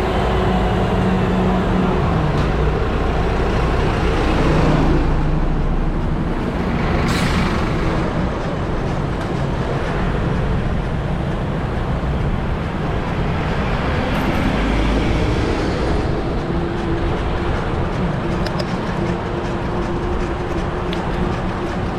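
Heavy street traffic heard from a bicycle in the road: car, bus and truck engines running nearby with a constant rumble, and one vehicle passing close about seven seconds in.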